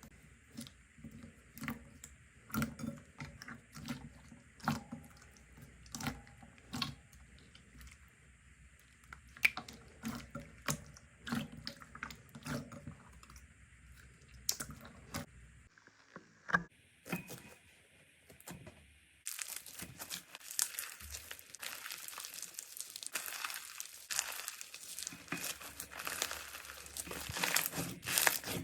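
Slime being squeezed and poked by hand, giving a run of separate clicks and pops. After a change a little past halfway, a denser slime gives a continuous crackling and crinkling.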